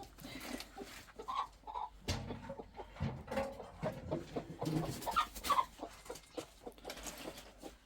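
Chickens clucking, a run of short, irregular calls.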